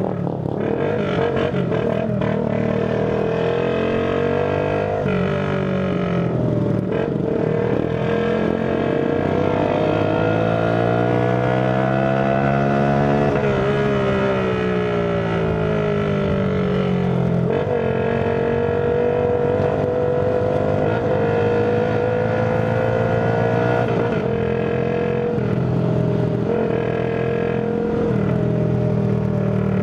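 Tuned 50cc Shineray Phoenix motorcycle engine running under way. Its pitch holds steady, climbs to a peak about halfway through as the throttle is opened, then falls back.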